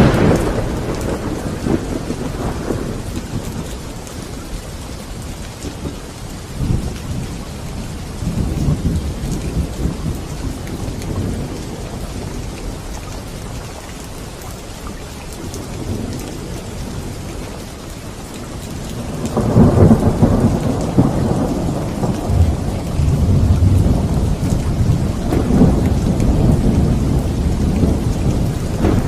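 Steady rain with rolling thunder: a sudden thunderclap at the start that fades over a few seconds, softer rumbles in the middle, and a long, louder roll of thunder from about two-thirds of the way through.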